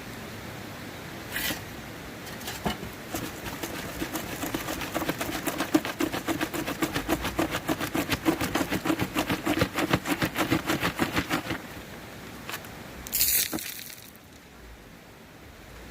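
Gravel and small rocks shaken and rattled rapidly and rhythmically, several strokes a second for about eight seconds, as material is worked for gold; a short hiss follows near the end.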